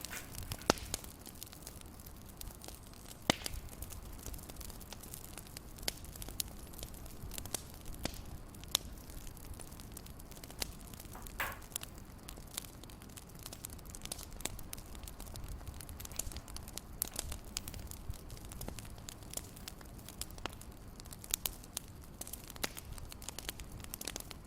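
Wood fire crackling in a fireplace: irregular sharp pops and snaps over a soft, steady low rumble.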